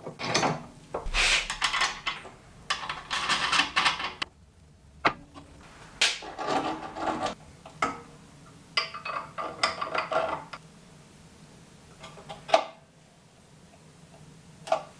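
Hand work on restoration parts: several bursts of scraping, each up to about a second and a half long, with a few sharp knocks between them.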